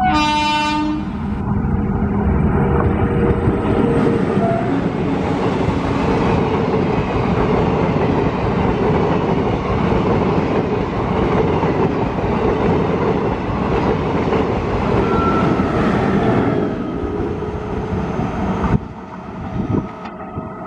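Indian Railways ICF diesel-electric multiple unit (DEMU) sounding a short horn blast and then passing close by at speed, with a loud continuous rumble of wheels on rail and the underfloor diesel power cars. The sound cuts off sharply near the end.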